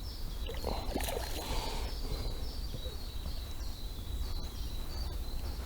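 Fishing line whistling under tension as a hooked carp runs against a bent float rod, a thin high whistle that holds on in short stepped pulses, over a low rumble.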